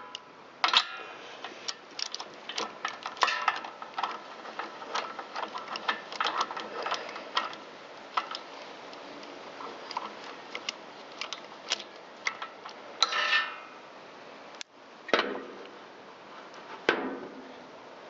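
Ratchet wrench and spark plug socket clicking, with metal tools clinking, as the spark plug is pulled from a Kawasaki FJ180V mower engine. The clicks come irregularly, with a denser rattling run about thirteen seconds in and a few louder knocks near the end.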